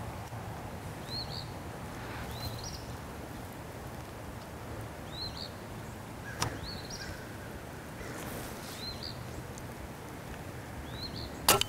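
A small bird calling short rising-and-falling chirps, repeated about once a second, over a steady low hum. A sharp double crack near the end is the loudest sound.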